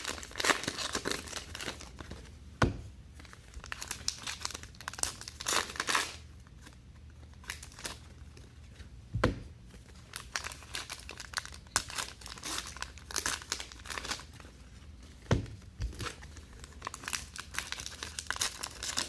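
Trading-card pack wrappers crinkling and tearing as packs are opened and the cards handled, with a few sharp knocks on the table.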